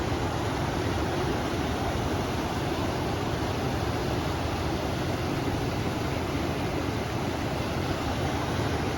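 River water flowing in a steady, even rush, mixed with wind.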